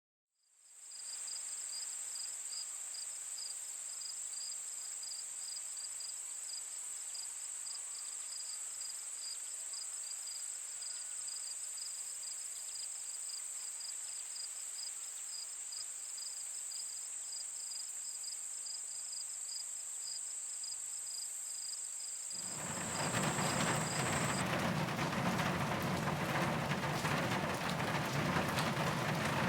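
Insects chirring: a steady high-pitched buzz over rapid pulsing chirps. About 22 seconds in, the louder steady hiss of rain takes over and the chirping stops.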